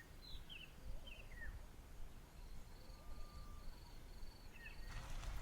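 Wild birds calling faintly: scattered short high chirps and falling notes, with a run of five evenly spaced high pips in the second half, over a low background rumble.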